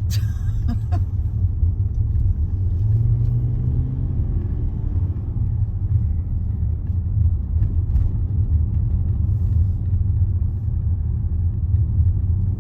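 Steady low rumble of a Range Rover's engine and tyres on the road, heard from inside the cabin while driving, with a couple of faint clicks.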